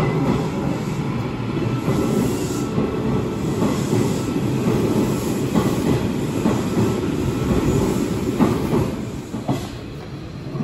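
Hanshin electric train running along the platform: a loud, steady rumble with wheel clatter, easing off about nine seconds in.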